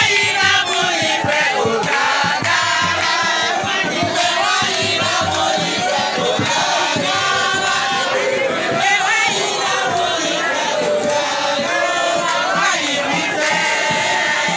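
A crowd singing and chanting together over music, many voices at once.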